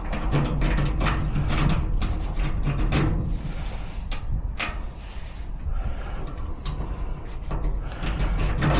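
Small metal clicks and scraping from lock-picking tools working in a garage door lock cylinder, busy at first and sparser later, over a steady low hum.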